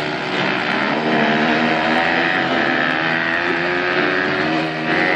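Several racing motorcycle engines running hard at once, their pitch rising and falling as the bikes accelerate and change gear.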